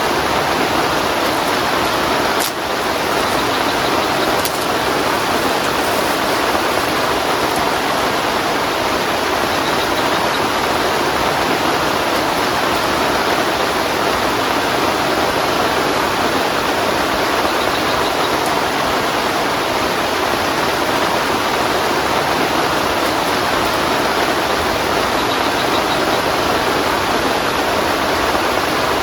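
Heavy rain falling steadily, a dense even hiss with no let-up. A single light tick about two and a half seconds in.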